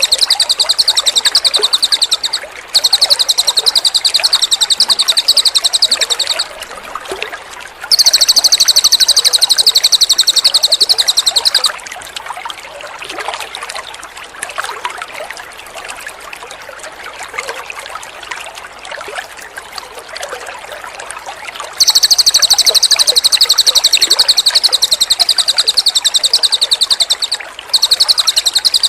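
Cililin songbird singing long, very rapid, high-pitched trills, each lasting several seconds, over a steady trickle of water. Through a roughly ten-second pause in the middle, only the trickling water is heard.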